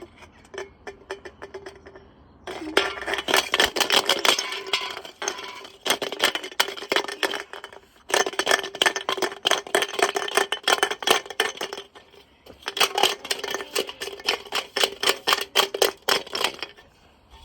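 An Appliance UK silver integrated washing machine's drum turns with a brick inside, and the brick bangs and clatters in rapid strikes. It comes in three runs of about four seconds each, with short pauses between them. A steady hum runs underneath.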